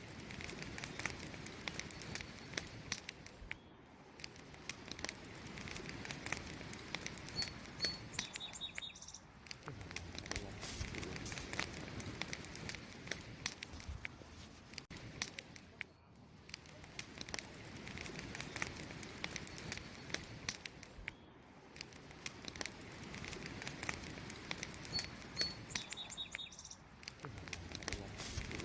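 Wood campfire crackling, with a steady stream of sharp pops and snaps. A short two-note bird chirp comes twice, about a quarter of the way in and near the end.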